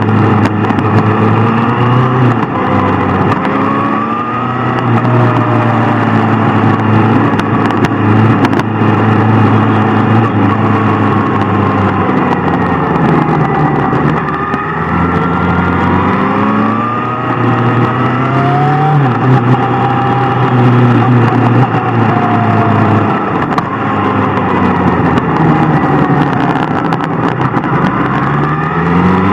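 Sport motorcycle engine under hard acceleration. Its pitch climbs through the revs and drops back at each gear change, several times, with spells of steady cruising in between.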